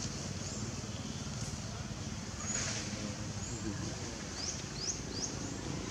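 Outdoor ambience: a steady low rumble, with a small bird giving short, high, rising chirps, a handful of them in the second half.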